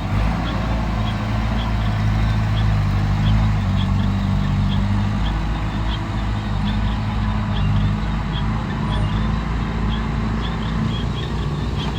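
Heavy diesel engine of the recovery machinery running steadily at a low, even pitch. Faint short high chirps repeat about two or three times a second over it.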